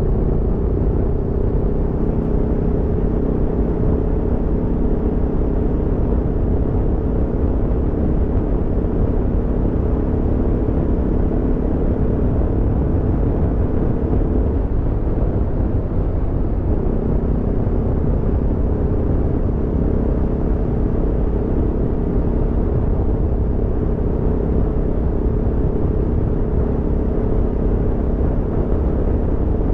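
Aprilia Tuono V4's V4 engine running at steady revs under way, over a low rumble. About halfway through, the engine note breaks up for a couple of seconds, then settles back to a steady note.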